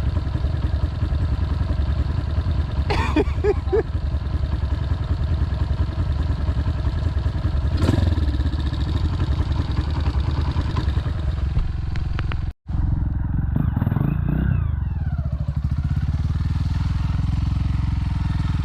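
Motorcycle engine running steadily, with its pitch easing down for a moment after a brief dropout about twelve seconds in.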